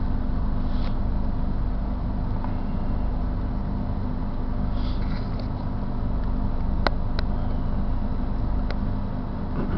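Metra bilevel commuter train rolling through the station, a steady low rumble heard from inside a car. A couple of sharp clicks come about seven seconds in.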